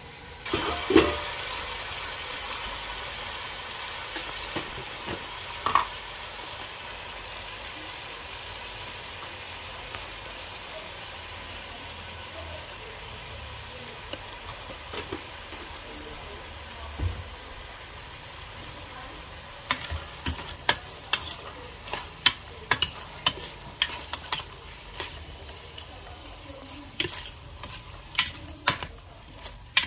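Chicken and vegetables sizzling in a stainless steel pot: a steady hiss begins about half a second in and slowly dies down. From about twenty seconds in, a metal spoon stirs the pot, knocking and clinking against its sides in quick, irregular strokes.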